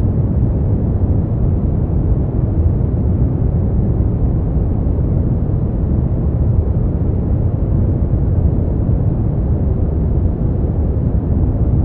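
Steady generated white noise for sleep: an even, unbroken hiss, deep and muffled, with most of its weight in the low range and nothing high.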